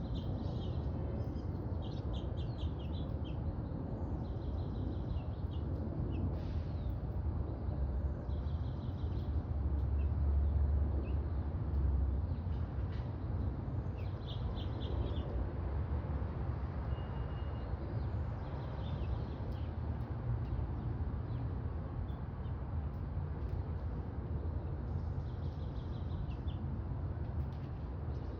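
Small birds chirping in short quick clusters of high notes every few seconds, over a steady low rumble that is the loudest sound throughout.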